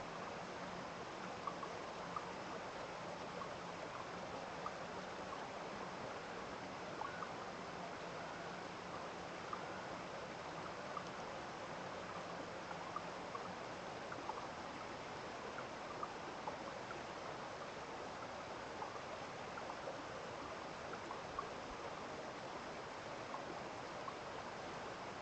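Small stream running steadily after rain, an even rush of water sprinkled with many faint ticks of drips and splashes.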